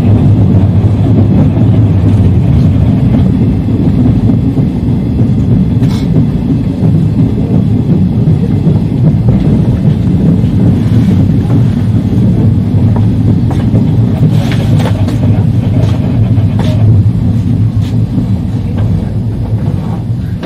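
Electric train running on the Sanyo Main Line, heard from the cab: a steady low rumble of wheels on rail, with a few sharp clicks from the track.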